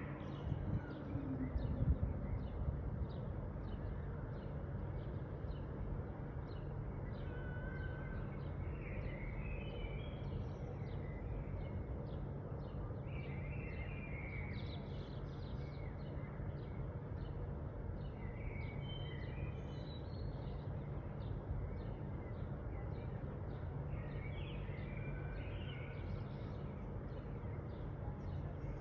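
Birds chirping and calling over and over with short, high notes, over a steady low rumble. A few louder knocks sound in the first couple of seconds.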